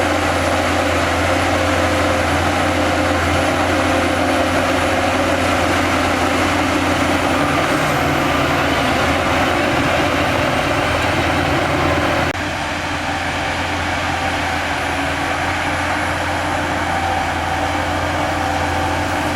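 Heavy diesel construction machinery running steadily with a low engine hum. About twelve seconds in, the sound changes abruptly and becomes a little quieter.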